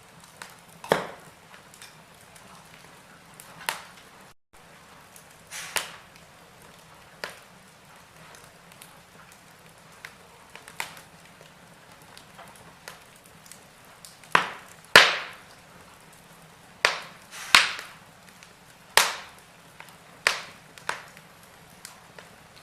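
Wood fire in a fireplace crackling, with irregular sharp pops and snaps over a faint steady hiss. The pops come more often in the second half.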